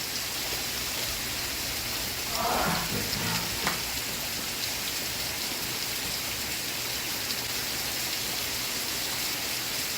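Steady rain falling, an even hiss of drops throughout. A brief, faint voice from the television show is heard about two and a half seconds in.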